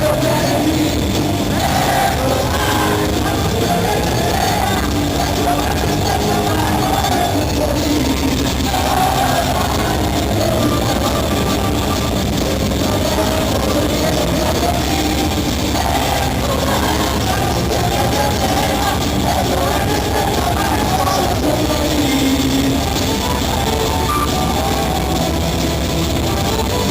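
Loud, steady heavy rock music from a full band, with a sung melody over it.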